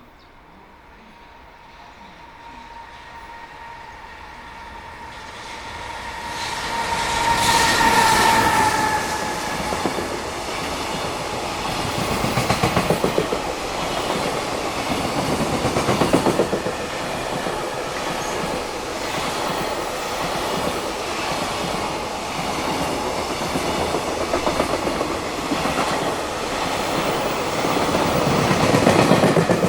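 A JR Freight EF210 electric locomotive hauling a container freight train approaches at high speed and passes. Its whining tone drops slightly in pitch as it goes by, about 8 seconds in. A long run of wagons follows, with steady rhythmic clattering of wheels over the rail joints.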